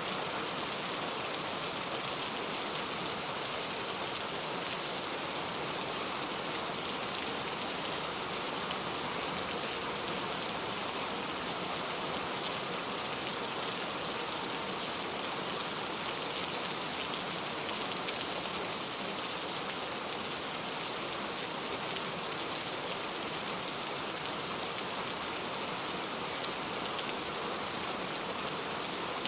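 Steady rain falling: an even hiss of many drops that does not change.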